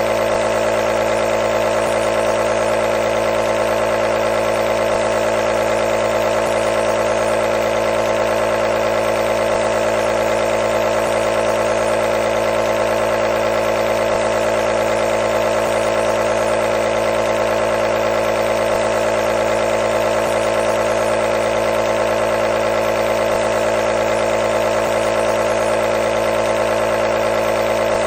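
Compressor nebulizer running: a steady mechanical hum with a strong mid-pitched drone and many even overtones, unchanging in pitch and level.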